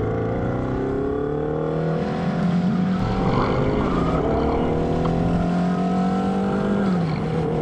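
Motorcycle engine accelerating under way. Its pitch climbs steadily, drops sharply about seven seconds in at an upshift, then holds steady.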